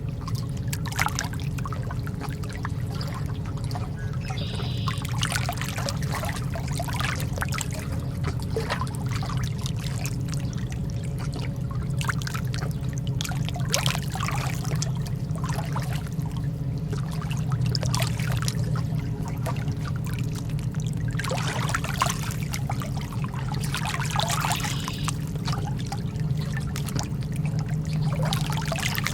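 Lake water lapping and splashing in small irregular waves, over a steady low hum.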